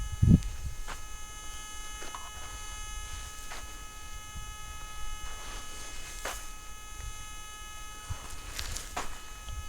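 Steady electrical hum and whine made of several high tones, with scattered soft clicks and a thump just after the start.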